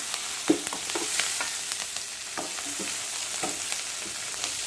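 A spoon stirring and tossing chicken pieces with a sautéed vegetable mixture in a still-hot pan, with irregular clicks and scrapes of the spoon over a steady sizzle.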